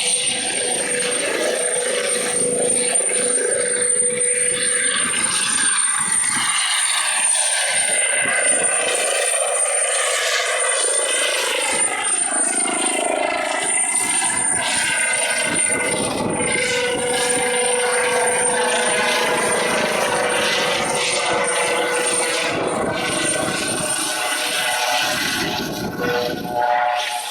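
Eurocopter EC135 helicopter running, its turbine and rotor noise loud and continuous with a steady high whine.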